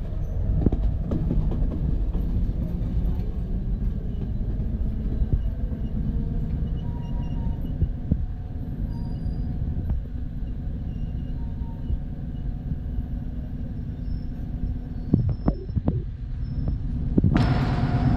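Passenger train coach running along the track, heard from an open window: a steady low rumble of wheels on rails. Near the end comes a quick run of sharp clicks, then a sudden rush of hissing noise in the last second.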